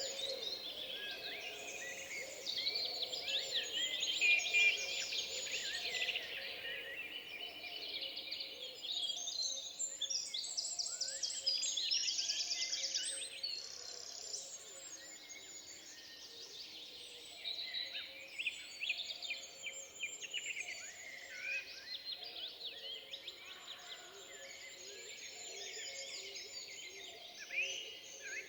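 Several songbirds singing and chirping over one another in a forest, with a fast rattling trill about twelve seconds in.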